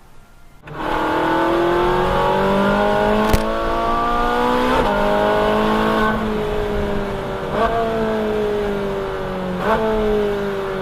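Ferrari 458 Spider's naturally aspirated V8 engine running under load, starting abruptly just under a second in. The engine note climbs for several seconds, then jumps sharply at three gear changes, with the pitch easing between them.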